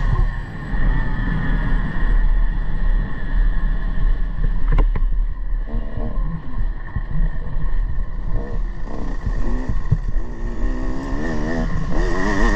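Motocross motorcycle engine revving up and down as the bike rides the track, the revs climbing again and again through the second half. A sharp knock comes about five seconds in.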